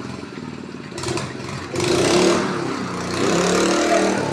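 An engine running, swelling twice into a loud, rushing surge with a rising engine note: first about two seconds in, then again a second later.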